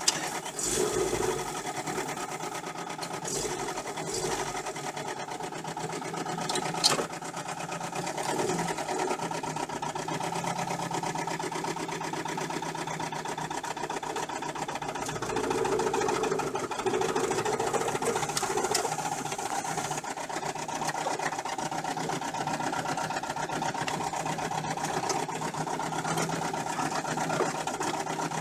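UMZ-417 four-cylinder petrol engine running with a rapid, rhythmic diesel-like knock from under the front timing cover, which the owner puts down to a failed camshaft timing gear. A single sharp click about seven seconds in.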